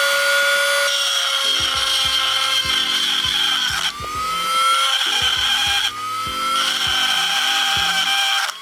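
Small angle grinder grinding away a weld on a steel motorcycle axle slug, its motor whine dropping twice as the disc bites and climbing back each time.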